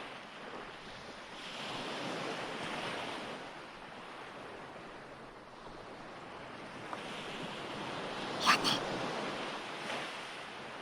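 Recorded ocean waves surging and washing back, swelling and fading in slow cycles, with one short sharp hiss a little over eight seconds in.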